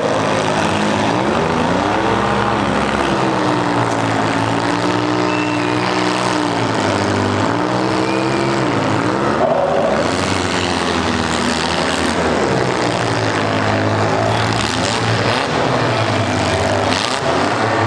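Compact-car demolition derby engines revving up and down, several at once, over a dense steady din.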